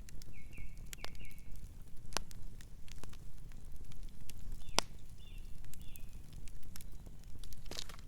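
Campfire crackling, with scattered sharp pops over a steady low rumble of the burning wood; the loudest pop comes a little before the five-second mark. A few short high chirps sound near the start and again past the middle.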